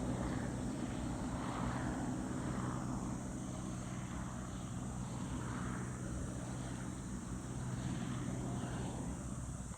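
Crop-spraying helicopter running steadily, a low drone from its rotor and engine with slow swells in the higher sound.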